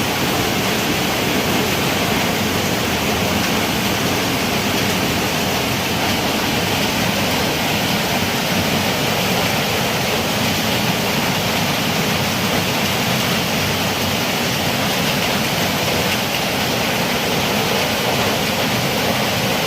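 Heavy rain falling, a steady rushing hiss at an even level throughout.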